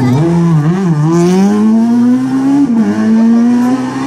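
Rally car engine under hard acceleration: the revs dip and wobble in the first second, climb steadily, drop sharply at a gear change near three seconds in, then rise again.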